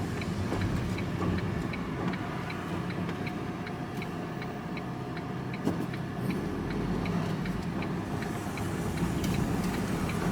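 Vehicle turn-signal indicator ticking at an even pace, about three clicks a second, over steady engine and road noise inside the cab.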